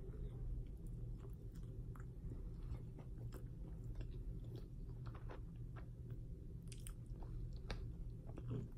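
A person chewing a bite of grilled cheese sandwich close to the microphone, with many small wet mouth clicks and smacks, over a steady low hum.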